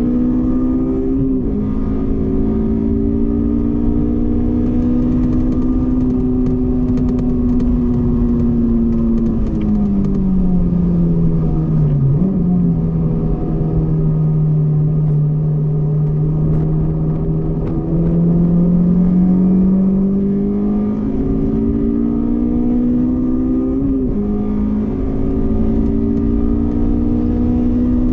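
Honda S2000's four-cylinder engine running hard on a race track with a manual gearbox. It shifts up about a second in, then falls in pitch as the car slows, with a quick blip on a downshift about twelve seconds in. It holds a low steady note, then climbs again from about eighteen seconds, with another upshift near twenty-four seconds.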